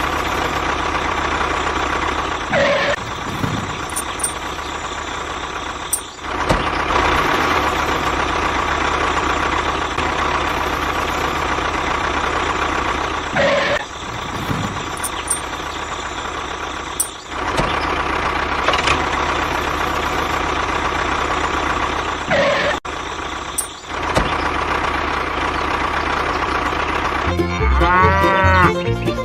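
DIY miniature tractor running steadily with an engine-like noise and a faint steady whine. The noise dips briefly several times. Near the end comes a short sound whose pitch rises and falls.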